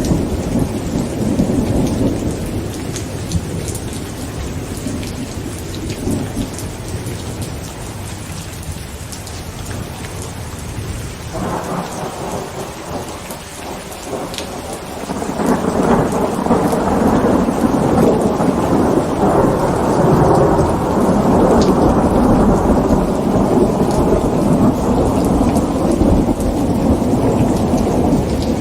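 Heavy rain pattering on a tent, with rolling thunder. One rumble fades away over the first several seconds; a second, louder roll builds from about halfway through and rumbles on for over ten seconds.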